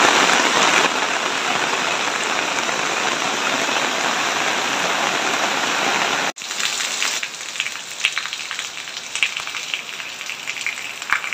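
Heavy rain falling, a dense steady hiss of a downpour on a wet road. About six seconds in it cuts off and comes back quieter, with scattered sharp drops heard separately.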